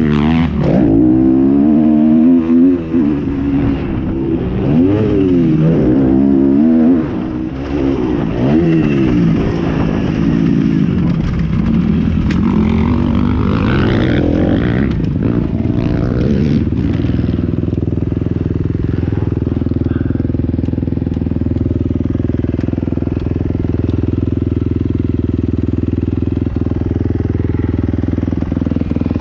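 Motocross motorcycle engines revving up and down, rising and falling in pitch as bikes ride by. From a little past halfway, an engine runs steadily at an even, low speed.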